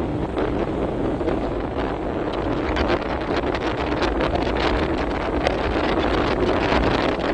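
Wind buffeting the microphone of a moving motorbike, over the steady run of the bike and its road noise, with gusty bursts throughout.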